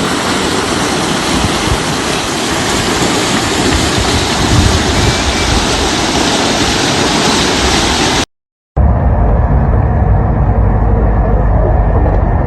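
Loud, steady rushing of storm water. About eight seconds in it cuts off abruptly, and a deep, rough rumble follows.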